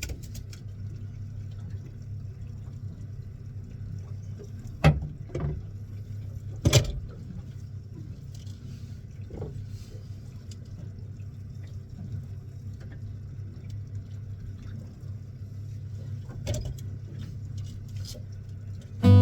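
Fishing boat's engine running with a steady low hum, with a few sharp knocks and clatters of gear on board.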